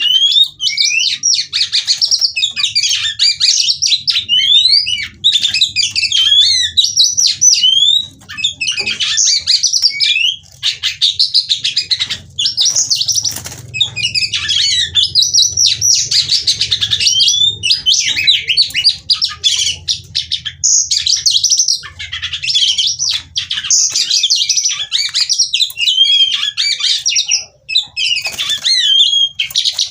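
Female oriental magpie-robin singing loudly: long, rapid phrases of varied high whistles, rising and falling glides, chirps and trills, nearly continuous with brief pauses every few seconds.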